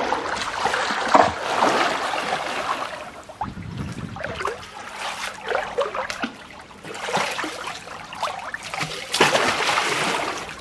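Shallow sea water washing and splashing in surges, loudest near the start and again in the last few seconds.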